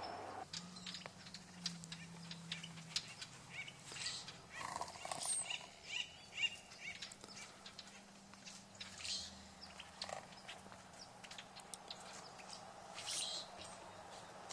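Birds chirping here and there, with scattered small clicks and rustles.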